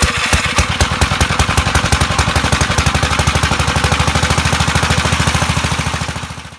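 Gravely 5665 tractor's engine running with a loud, rapid, even putter of firing pulses, then dying down and stopping near the end.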